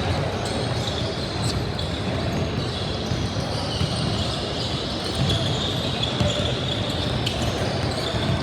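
Basketball game noise in a gym: a ball bouncing on the court over a steady din of crowd and players, with short high squeaks.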